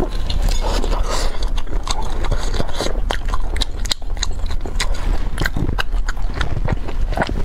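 Close-miked biting and crunchy chewing of a crispy bacon roll, with dense crackling clicks throughout.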